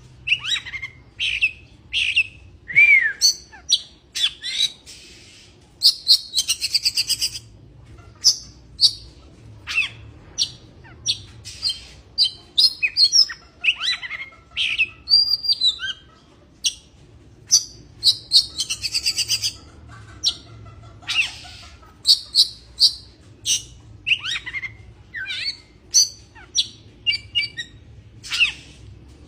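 Oriental magpie-robin (kacer) singing a fast, varied song of short whistles, chirps and falling notes broken by longer buzzy rattles. It is the excited song of a bird in breeding condition.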